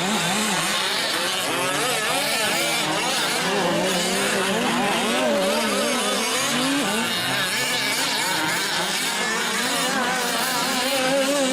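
Several gas-powered 1/5-scale RC off-road trucks racing, their small two-stroke engines revving up and down and overlapping in a constant, wavering buzz.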